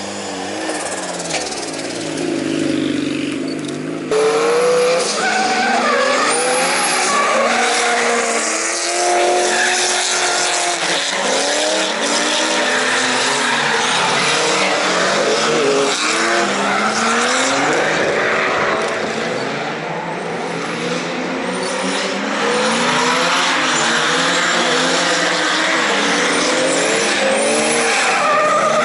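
Drift cars on track, their engines revving up and down through many overlapping rising and falling pitches as their tyres squeal, getting louder about four seconds in.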